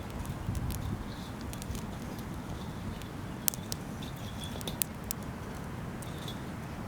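Wood fire crackling: irregular sharp pops and snaps, a couple louder ones past the middle, over a steady low rumble.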